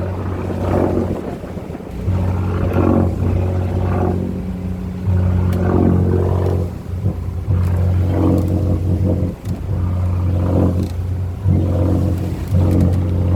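Motorboat engine running, its hum surging and dropping every second or two as the boat rides a rough sea, with wind buffeting the microphone.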